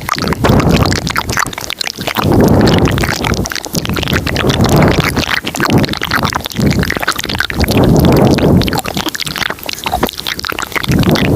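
Close-miked ASMR mouth sounds: a dense run of wet clicks and smacks, layered with breathy swells that come and go every couple of seconds.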